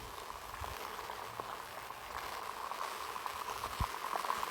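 Rain pattering steadily: an even hiss with many small scattered ticks.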